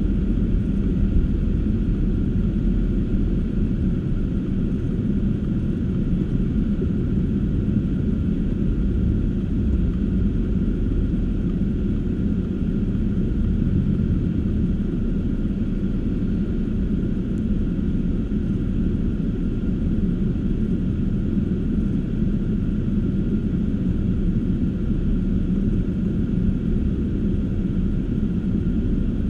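Steady low rumble of a car driving along: engine and tyre road noise, even and unbroken.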